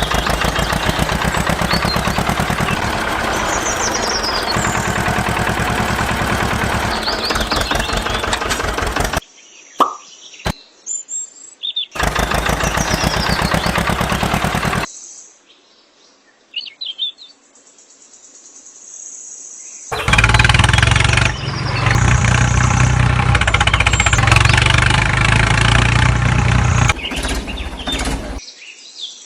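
A small engine running in several clips cut abruptly one after another: a long stretch at the start, a short one around the middle, and another with a deeper hum near the end. Birds chirp in the quiet gap between them.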